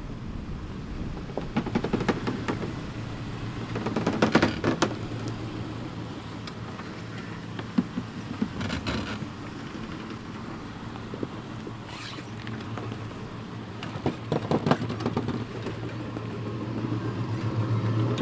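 Jeep WJ Grand Cherokee crawling slowly over rocks off-road, its engine running at low speed with a steady hum that rises near the end. Several bursts of crunching and scraping from tires and the underbody on rock break in along the way.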